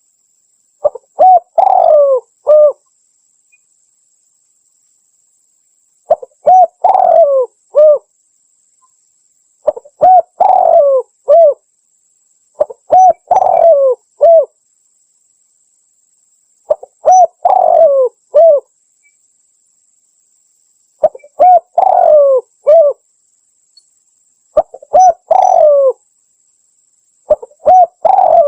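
Spotted dove (tekukur) cooing its song: a phrase of several short coos, some bending up and down, repeated about eight times at intervals of three to four seconds with clean pauses between.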